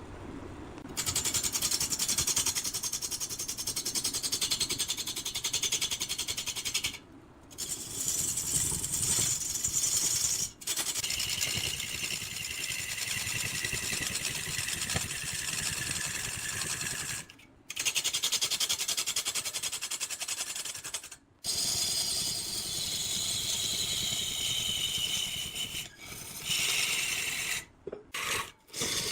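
Cutting tool scraping into spinning wood on a lathe: a continuous rough hiss with a high whine that slowly drops in pitch. The sound breaks off abruptly several times and resumes.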